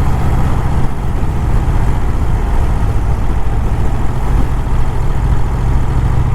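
1951 Vincent Rapide's 998 cc V-twin engine running steadily as the motorcycle cruises at an even speed, with the rush of riding wind.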